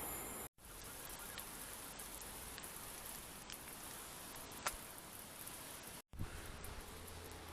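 Faint steady outdoor hiss with a few light ticks, cut off twice by brief dead-silent gaps where clips are joined.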